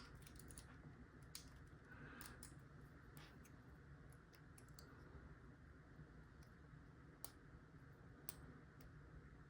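Faint, irregularly spaced clicks of a lock pick working the pin stack inside a lock under tension, a click every half second to a second.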